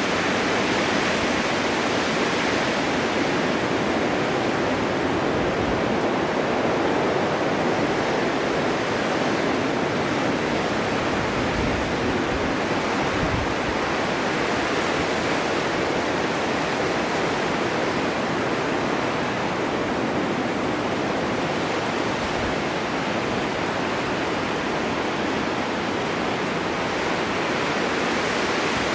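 Snowstorm wind blowing as a steady, even rush with no gusts or breaks.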